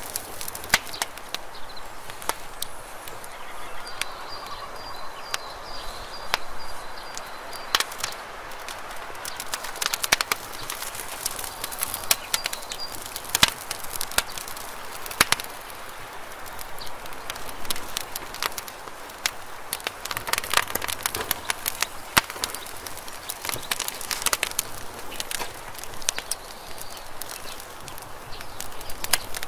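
Wood campfire crackling, with sharp irregular pops and snaps over a soft steady hiss of burning.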